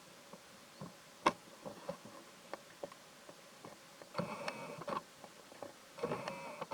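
Scattered small clicks and rustles, then two short bursts of high, wavering squealing cries, one near the middle and one near the end: a baby monkey crying.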